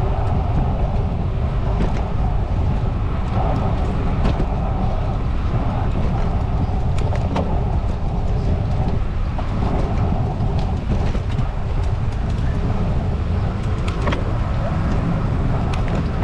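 Steady rumble of wind and road noise from riding a bicycle.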